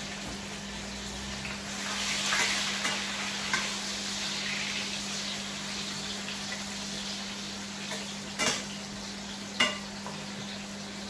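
Onions frying in oil in a cooking pot with a steady sizzle, stirred so the sizzle swells for a moment. Two sharp clinks of a utensil against the pot come near the end.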